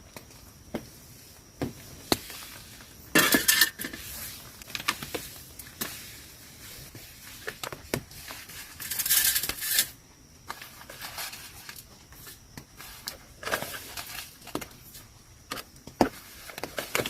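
Camp gear being handled: scattered clinks and knocks, like dishes or utensils, with two louder rustling bursts about three seconds and nine seconds in.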